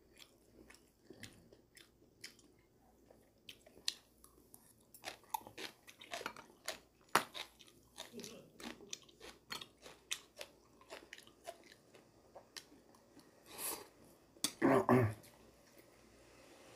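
A man chewing food close to the microphone with his mouth working wetly: a long string of small lip smacks and clicks. There are a couple of louder mouth noises near the end.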